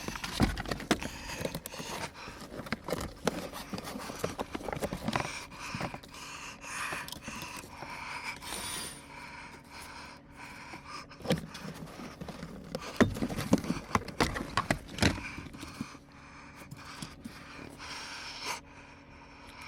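Irregular clicks, knocks and rattles of hands working with small metal parts and tools, over a faint steady hum.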